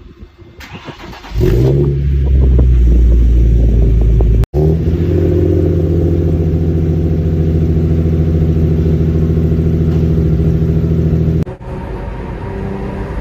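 Hyundai Genesis Coupe 3.8 V6 with a full ARK exhaust (headers, test pipes, GRIP exhaust) starting up and settling into a steady, deep idle drone. Near the end the sound steps down to a quieter level.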